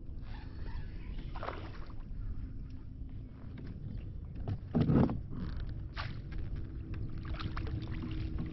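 Sounds of a fishing kayak on the water: low rumbling noise with small knocks and clicks, and one louder thump about five seconds in.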